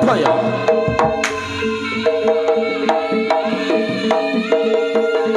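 Live Javanese jaranan gamelan music: sharp hand-drum strokes over steadily repeated metal-keyed notes in a driving rhythm.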